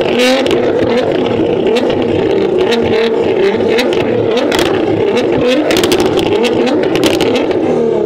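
A high-performance car engine revved repeatedly through its exhaust, its pitch rising and falling, with many short sharp clicks and crackles over it.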